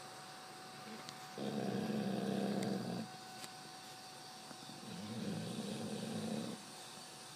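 Pit bull dog snoring in its sleep: two long, low snores about three and a half seconds apart, with quiet breathing between.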